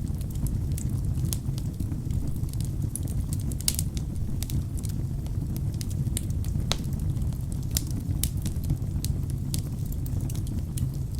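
Wood fire burning in a fireplace: a steady low rumble of flames with irregular sharp crackles and pops from the burning logs, a couple of louder pops about a third and two thirds of the way in.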